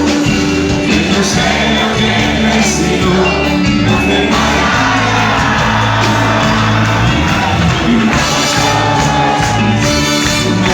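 Loud live band music, with a crowd shouting and whooping over it.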